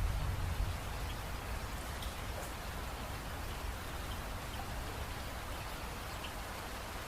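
Steady rain falling, an even hiss with scattered single drops ticking. A low rumble is loudest in the first second and then eases.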